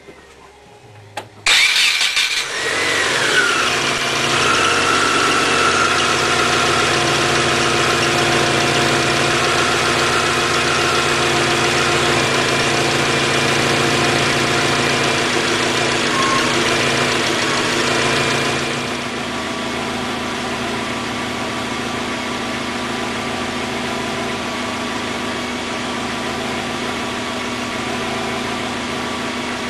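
1996 Subaru Legacy's EJ20 2-litre flat-four boxer engine cranking and catching about a second and a half in, then idling steadily. About eighteen seconds in the sound drops noticeably and it settles into a quieter, lower idle.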